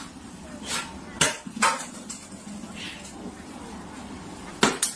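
Several sharp clatters of hard objects knocking together: three spaced over the first two seconds, then a quick pair near the end.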